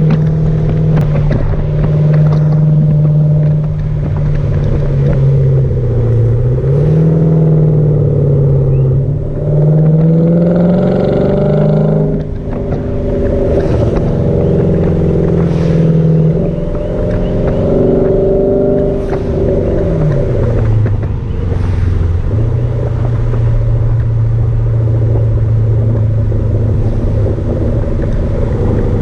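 Hyundai Genesis sedan's V8 running through a custom exhaust with the muffler deleted, as the car is driven. The engine note climbs in pitch under acceleration, drops sharply about twelve seconds in, climbs again, then settles to a steady lower note while cruising.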